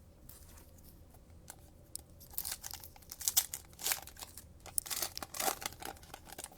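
A plastic trading-card pack wrapper being torn open and crinkled, in irregular crackly bursts starting about two seconds in.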